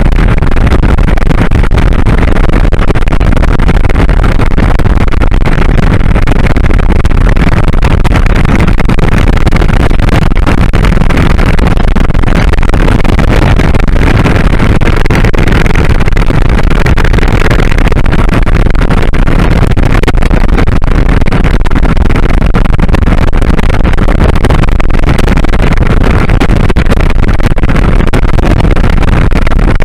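Loud, steady wind rush on the microphone of camera glasses worn by a rider on a moving 2001 Kawasaki Drifter 1500 motorcycle, with the bike's engine and road noise underneath. It holds even, with no changes.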